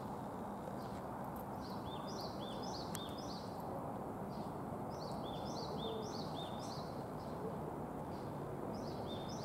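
A small bird chirps short high notes in quick runs of several, three times over, above a steady outdoor background noise.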